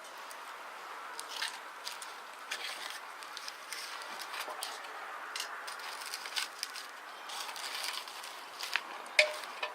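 Wood campfire crackling, with irregular small pops and one sharper pop near the end.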